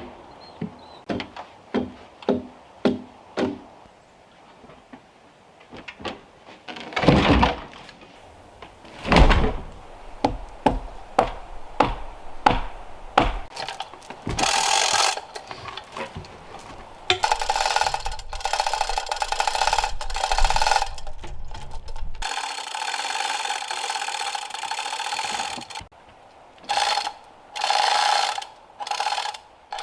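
Timber being worked with hand tools: a run of quick wooden knocks, about two a second, then two heavier thuds, then long rasping strokes and a few shorter strokes near the end.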